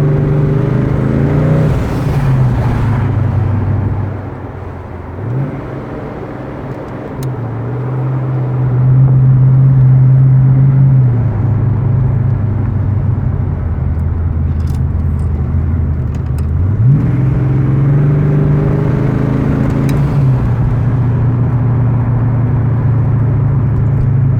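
Twin-turbocharged Ford 302 V8 of a 1988 Fox-body Mustang, heard from inside the car as it drives. The engine pitch climbs under acceleration and drops back at each shift or lift, with a quieter lull about four seconds in and a strong pull around eight to eleven seconds in.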